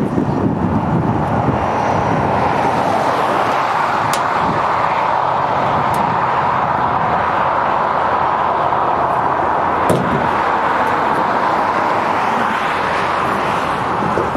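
Steady road and engine noise of a moving vehicle, with a few sharp clicks.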